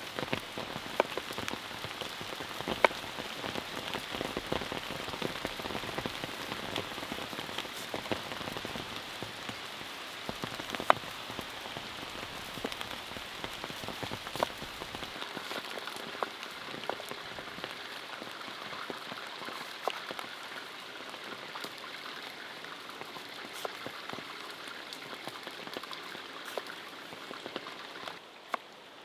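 Steady rain falling and pattering on surfaces, with many sharp separate drop hits scattered through it; it eases slightly near the end.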